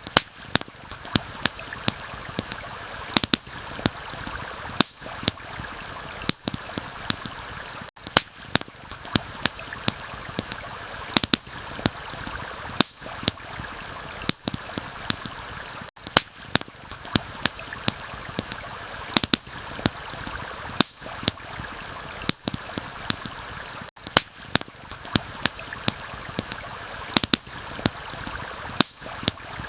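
Campfire crackling, with frequent sharp irregular pops, over a steady rush of flowing stream water. The sound briefly cuts out about every eight seconds.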